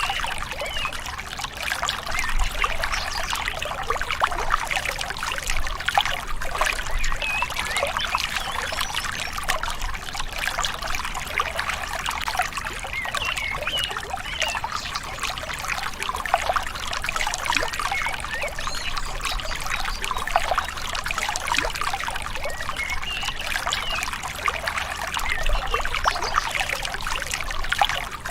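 Small river babbling and trickling steadily, a dense even wash of water burbling.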